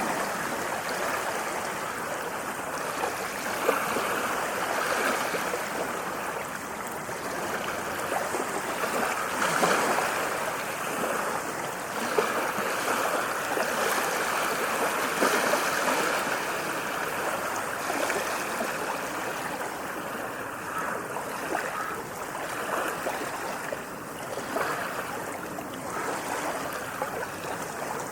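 Small sea waves lapping and splashing, a continuous wash of water that swells gently every few seconds.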